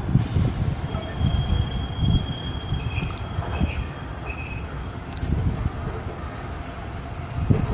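Freight train of intermodal wagons rolling past, a steady low rumbling clatter of wheels on the rails, with a steady high-pitched squeal held over it.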